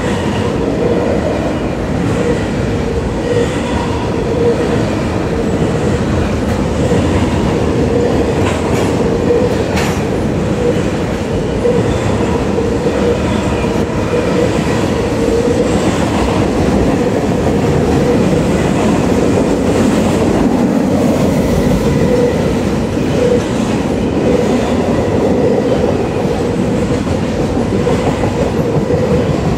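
Double-stack intermodal container cars of a freight train rolling past, a steady rumble of steel wheels on the rails with a steady hum.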